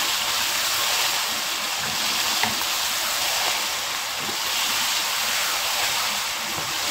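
Mutton keema and potato chunks sizzling steadily in oil in a wok as they are stir-fried with a spatula, with faint scrapes and a small click about two and a half seconds in.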